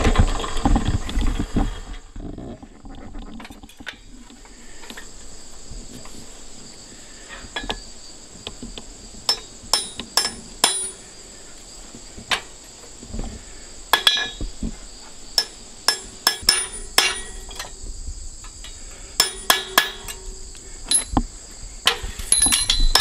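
A blacksmith's hammer driving a slitting punch into a piece of 1/4-inch round iron stock to open a hole in it. The blows ring and come in irregular clusters through the second half. Under them runs a steady high chirring of insects.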